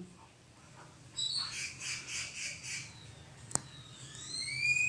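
A bird calling: a run of short high squawks about a second in, then rising chirps near the end, with one sharp click in between.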